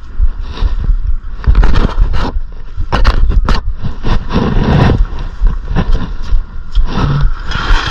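Irregular metal clanks, knocks and scrapes of hand tools and parts being handled at the van's front wheel and brake, over a steady low rumble.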